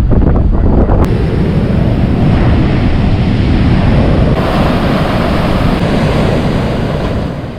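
Strong wind buffeting the microphone over the steady rush of heavy hurricane surf, loud throughout and fading out near the end.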